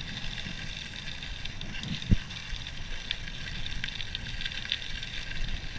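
Cannondale Topstone 4 gravel bike riding over loose gravel, its tyres crunching steadily, with wind rumbling on the microphone. One sharp knock about two seconds in.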